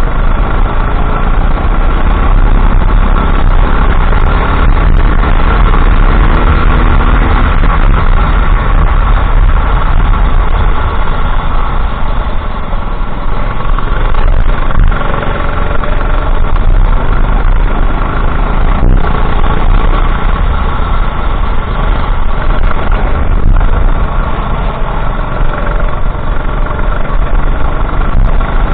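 Go-kart engine running continuously at race pace, its pitch rising and falling as it accelerates out of corners and backs off into them. The sound is loud throughout.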